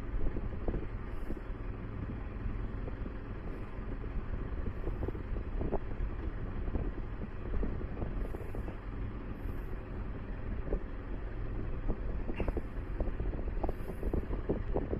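Steady low rumble of a ship's engine, with wind noise on the microphone.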